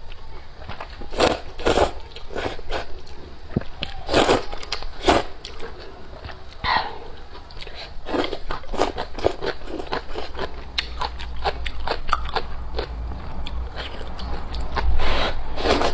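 A person eating close to the microphone: irregular crunching bites and chewing, many sharp crunches in quick succession. A low rumble grows louder near the end.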